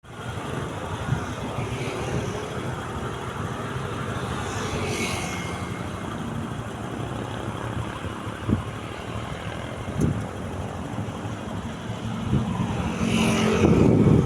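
Steady vehicle rumble with a noisy hiss, growing louder near the end.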